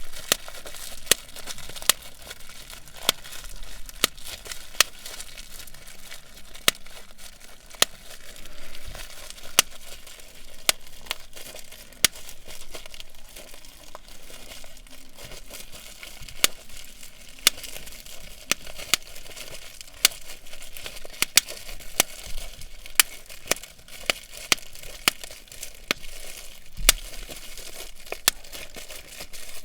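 Bubble wrap being popped: sharp pops at irregular intervals, about one or two a second, over a steady crinkling of the plastic.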